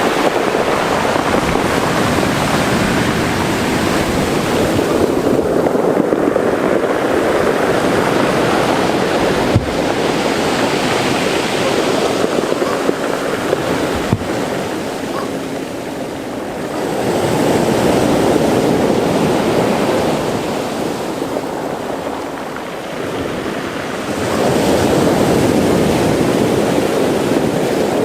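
Mediterranean sea waves washing into a rocky cove, a steady wash that swells and ebbs with each surge. Wind buffets the microphone at times.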